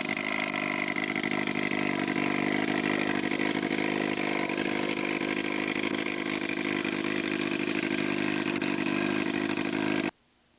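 Large-scale model aircraft engine running steadily at a low, idle-like speed on the 1/3-scale Nieuport 17 radio-control model after landing. It cuts off abruptly near the end.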